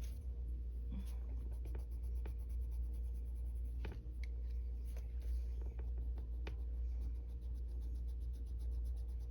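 Colored pencil scratching on paper in quick, even shading strokes, with a few light taps, over a steady low hum.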